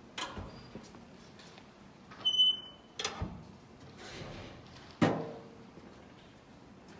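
A few sharp clunks with a short metallic ring, near the start, about three seconds in and about five seconds in, the last the loudest. A short high electronic beep comes a little after two seconds.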